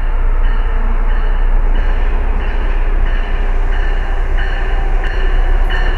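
Amtrak ACS-64 electric locomotive and its passenger train approaching at speed on the near track: a loud, steady rumble of wheels on rail as it draws close.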